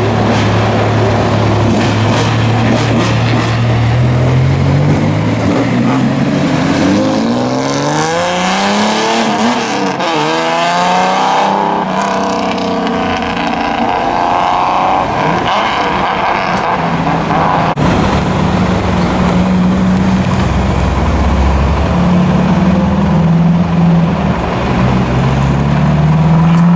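Modified cars' engines and loud exhausts accelerating hard and passing, the engine note rising in pitch through each gear. About seven to twelve seconds in, several engine notes climb and fall steeply together as a car revs past; near the end another engine climbs steadily in pitch.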